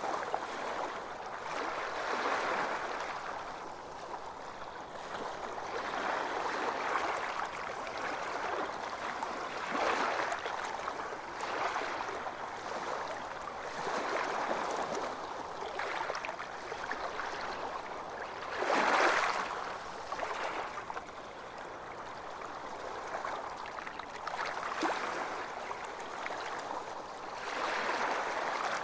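Small sea waves washing onto a beach, the surf noise swelling and falling back every few seconds, with one louder break about two-thirds of the way through.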